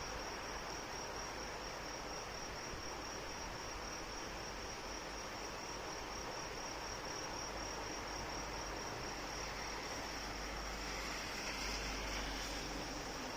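Steady rain hiss, with insects trilling continuously in a high, rapidly pulsing tone over it.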